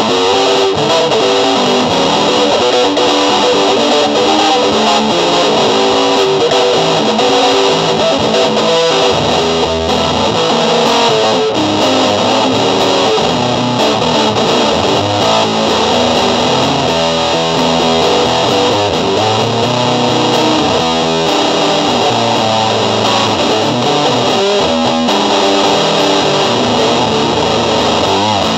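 Electric guitar played through distortion and effects, continuous loud music with changing notes.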